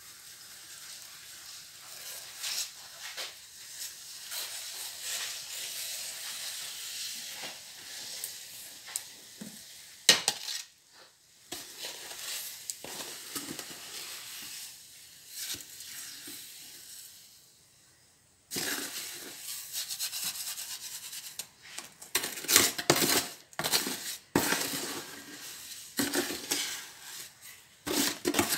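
Wet refractory cement being mixed and packed with a metal tool: gritty scraping and stirring, with sharper clinks and knocks of the tool against the container in the last third.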